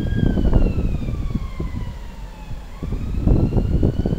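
Container wagons of a freight train rumbling and clattering past at speed. Over it a high tone glides slowly down, breaks off about three seconds in and starts rising again.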